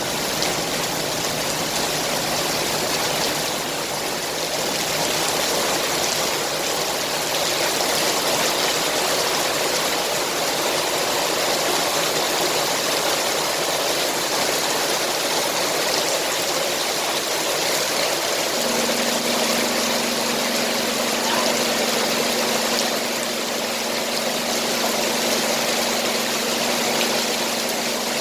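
Heavy rain pouring steadily. About two-thirds of the way through, a steady low hum starts and holds.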